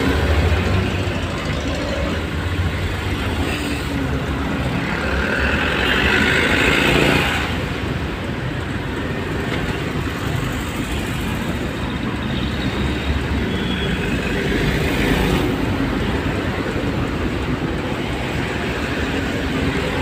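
Steady road and engine noise of traffic, with a deep rumble and a constant hiss. A louder hiss rises about five seconds in and stops abruptly near seven seconds.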